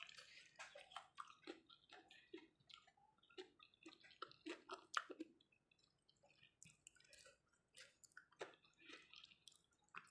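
Faint, wet chewing and small mouth smacks from someone eating soft boiled sweet potato leaves with sambal, in irregular little clicks.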